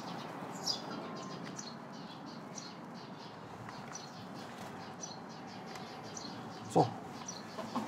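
Small birds chirping faintly, many short high calls scattered over a soft background hiss, with one brief louder, lower sound near the end.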